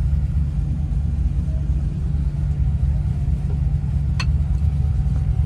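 Steady low rumble of a car running, with a single sharp click about four seconds in.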